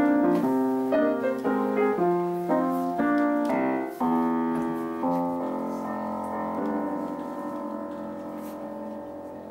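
Background piano music: chords struck about twice a second, then one long chord from about four seconds in that slowly dies away.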